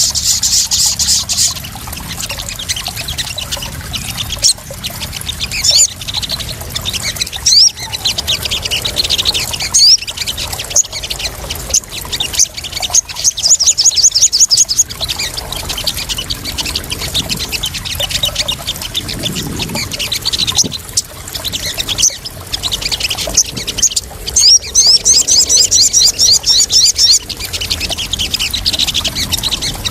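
Sogon birds calling in rapid, high-pitched chattering trills that come in repeated runs of a second or two, over a steady sound of splashing, trickling water.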